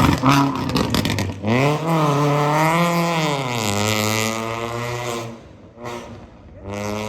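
Drift car's engine revving hard: after a crackle of clicks and pops at the start, the revs climb about a second and a half in, hold high and waver, then fall back and die away after about five seconds, with a short rev again near the end.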